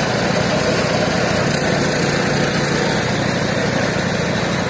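Mobile band sawmill running with its engine droning steadily.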